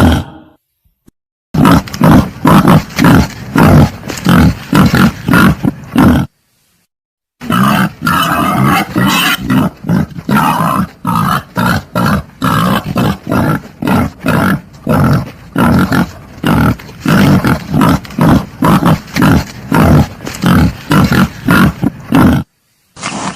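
Wild boar grunting in fast, rhythmic runs of about three grunts a second, broken twice by short silences.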